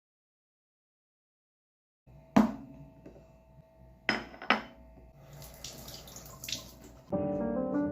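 Silence, then faint kitchen sounds about two seconds in: water running at a sink, with four sharp clinks or knocks, the first the loudest.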